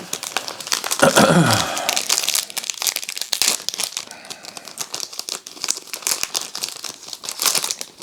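Crinkling and crackling of a foil trading-card pack wrapper and cards being handled as a pack of basketball cards is gone through, with a short pitched sound falling in pitch about a second in.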